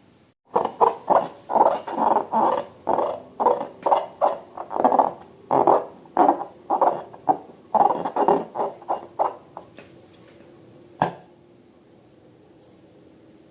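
Slime being squeezed and handled in a balloon: a quick run of short squishy sounds, about two or three a second, that stops about ten seconds in. A single sharp click follows about a second later.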